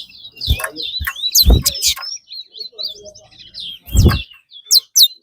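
Caged songbirds in a singing race giving fast, overlapping chirps and short whistled phrases, each finished song being one counted in the contest. Three loud thumps break in about half a second, a second and a half and four seconds in.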